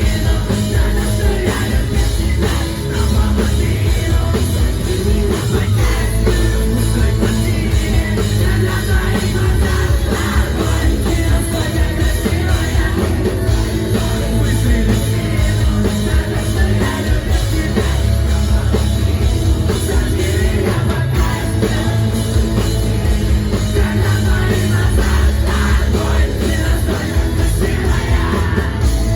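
A rock band playing loud live music with a singer, heavy bass and drums running steadily throughout.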